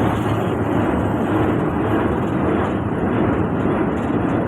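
Engine of a river ferry boat running steadily.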